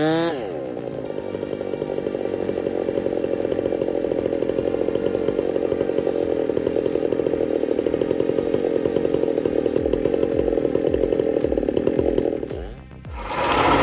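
Chainsaw running at a steady high speed, cutting, for about twelve seconds after a quick rev, then cutting off near the end, where a short burst of louder noise follows.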